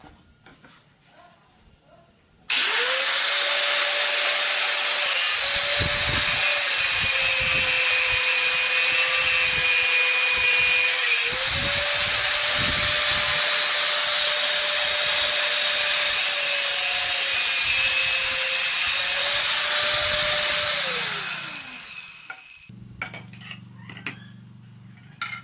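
A handheld electric power tool switches on with a steady motor whine over a loud hiss. Its pitch sags for a moment about halfway through, as if pressed into work. Near the end it is switched off and winds down with a falling whine.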